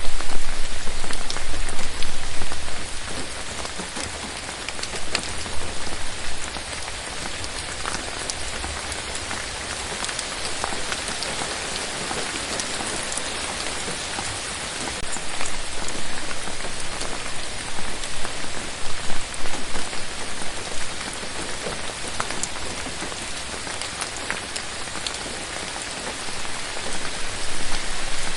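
Steady rain falling, a dense hiss with scattered single drops ticking over it. It swells louder for a couple of seconds at the start, again in the middle stretch, and near the end.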